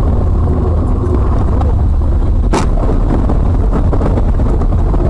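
Car driving, heard from inside the cabin: a steady loud low rumble of engine and road noise, with one sharp click about two and a half seconds in.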